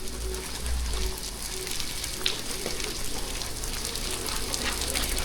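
Steady rain falling, with many scattered sharp drop ticks over an even hiss and a low rumble underneath.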